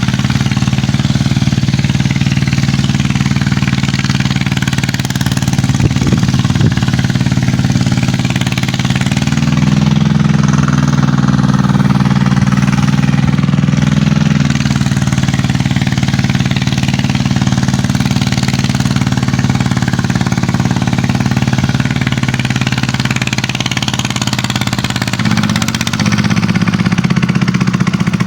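Kubota tractor's diesel engine running hard, its note shifting up and back down a couple of times.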